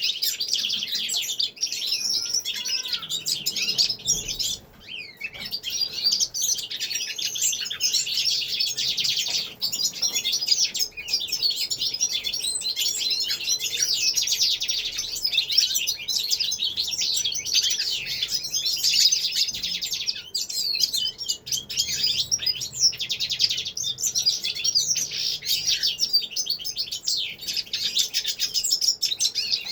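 Many caged songbirds, finches such as goldfinches among them, singing and twittering all together in a dense, continuous chorus of fast chirps and trills, with brief lulls about four and nine seconds in.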